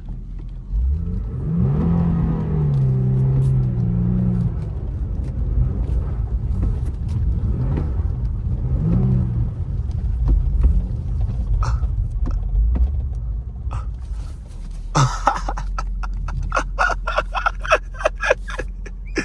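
Car engine revved: the pitch climbs about a second in and holds for a few seconds, then a second, shorter rev comes around nine seconds in. Near the end there is a fast run of sharp clicks, about four a second.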